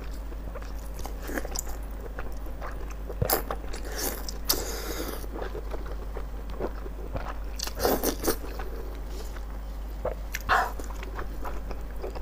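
Close-up eating sounds: biting and chewing of chewy, sauce-coated offal, with wet smacking and a few louder squelches scattered through.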